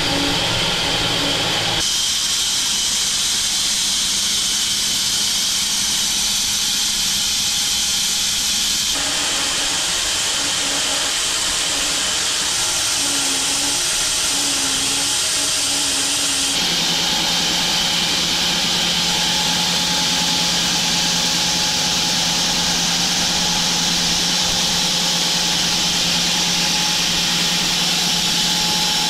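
Home-built wide bandsaw mill running and sawing through an acacia log: a loud, steady machine sound with a strong hiss from the blade in the cut. Its tone shifts abruptly about 2, 9 and 16 seconds in.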